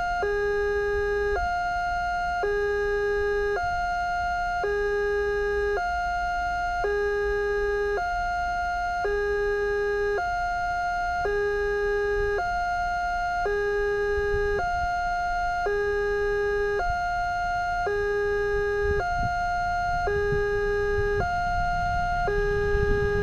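Railway level-crossing warning siren sounding a steady two-tone alarm: a lower and a higher electronic tone take turns, each held about a second. A low rumble builds near the end as the train approaches.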